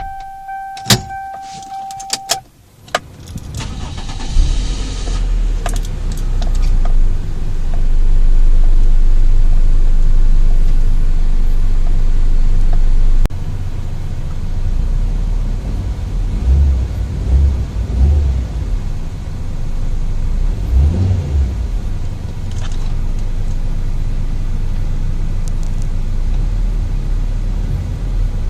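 Toyota Corolla (E11) being started: a few clicks and a steady beep of about two seconds, then the engine cranks and catches about three seconds in. It runs loud and steady at a raised idle, drops to a lower idle about thirteen seconds in, and is then revved in several short blips of the throttle.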